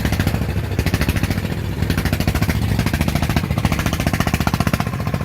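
Farm diesel engine running with a rapid, even chugging beat.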